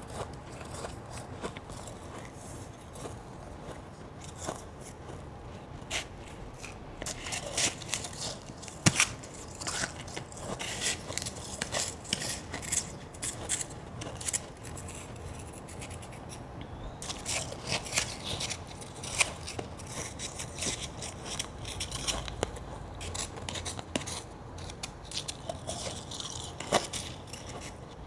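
Crunchy ice being bitten and chewed close to the microphone: a run of crisp crunches and crackles, busiest in two long spells.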